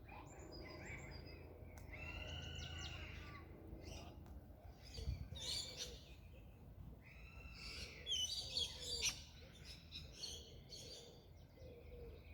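Several birds singing and chirping over one another, with a soft low call repeating through the second half.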